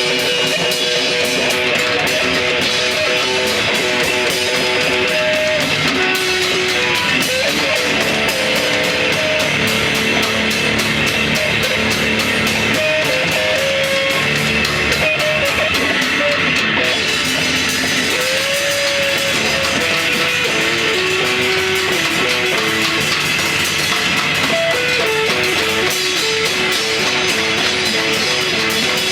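A rock band playing live: electric guitar over a drum kit, steady and loud.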